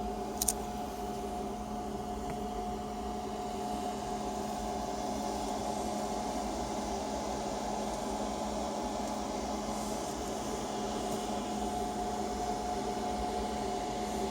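Steady mechanical hum with several constant tones over a noise hiss, like a small motor or fan running. A short click comes about half a second in.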